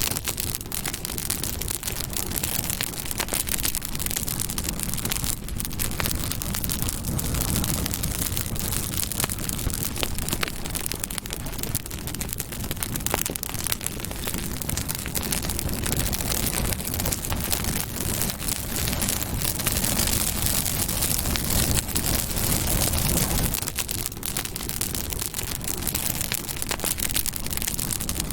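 Campfire burning, with dense, continuous crackling and popping of burning wood over a steady low rush of the flames.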